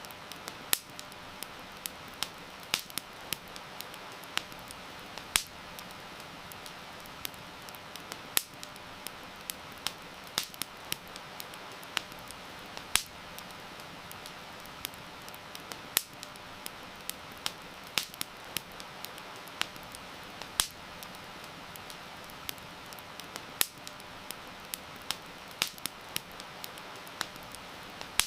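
Wood fire crackling, with sharp irregular pops, a few of them loud, over a steady hiss of heavy rain.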